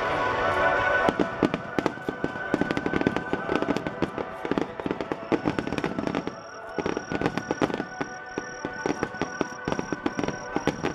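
Fireworks display finale: dense crackling and popping from many bursting shells, over music playing. From about halfway a high tone pulses roughly twice a second.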